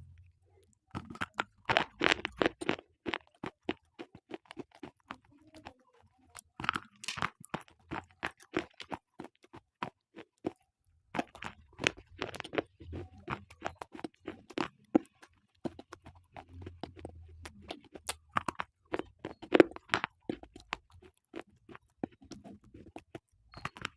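Slate pencils being bitten and chewed close to the microphone: bouts of sharp, brittle crunching, with a short pause a little before the middle.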